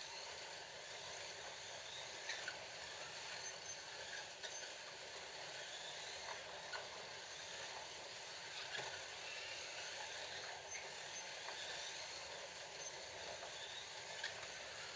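Several Scalextric slot cars racing round the track: a steady whir of their small electric motors running in the slots, with occasional faint clicks.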